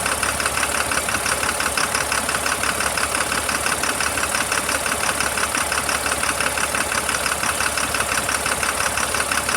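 Caterpillar 3116 inline-six diesel engine idling steadily, with an even, fast diesel clatter.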